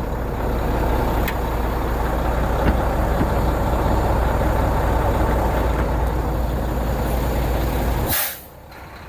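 Semi truck's diesel engine idling with a steady low rumble. About eight seconds in there is a short sharp air hiss and the engine sound suddenly drops away: a change in the engine's running that the owner has been told is the variable geometry turbo closing to build back pressure and warm the engine faster.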